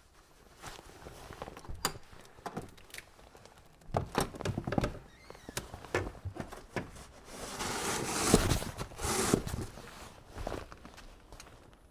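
Footsteps crunching in snow, uneven steps and knocks, with a longer scraping crunch about two-thirds of the way in.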